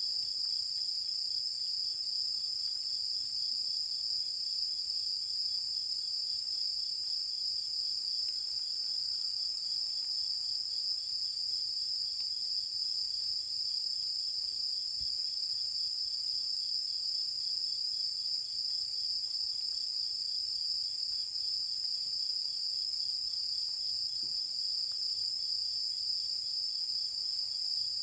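Night chorus of singing insects: a steady, high-pitched trilling without pause, with a fainter, rapidly pulsing chirp a little lower in pitch.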